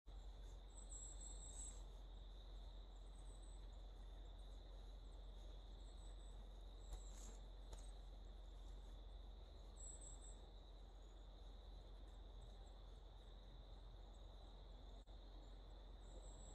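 Faint, steady insect chorus with a few brief high chirps.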